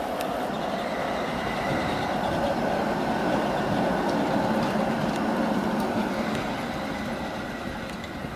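A tram running past on rails: a steady rolling rumble that swells to its loudest about midway and then fades, with a faint high whine over it.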